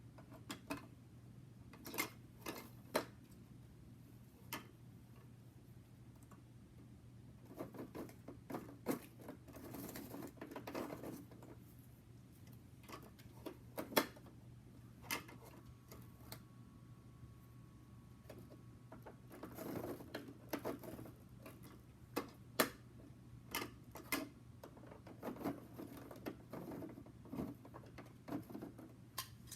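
Irregular small plastic clicks, knocks and brief rattles from a toy garbage truck being handled, with a steady low hum underneath.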